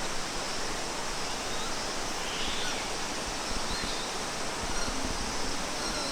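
Steady rushing of flowing water from a waterfall or stream, with a few faint, short high chirps in the middle.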